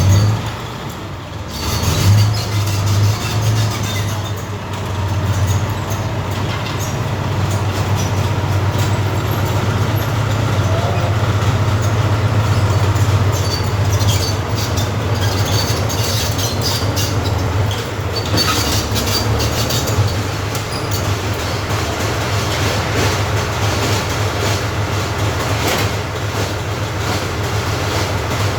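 Armoured recovery vehicle's engine running with a steady deep rumble and some mechanical clatter. It dips briefly just after the start, then runs on evenly.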